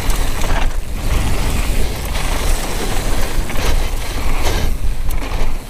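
Downhill mountain bike rolling over a trail: tyres on dirt and the bike rattling, with a few sharp knocks over bumps and wind rumbling on the helmet-mounted action-camera microphone.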